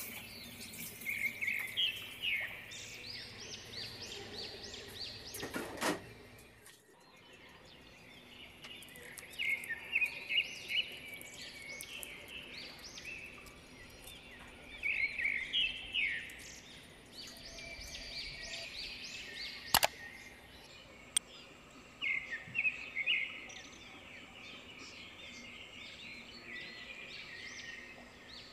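Small birds chirping and twittering in repeated short bursts of song. In the first seven seconds there is also a low steady hum, which cuts off suddenly, and about two-thirds of the way through there is a single sharp click.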